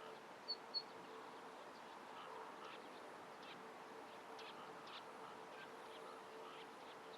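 Two short high bird chirps about half a second in, over faint scattered distant birdsong and a steady faint hum.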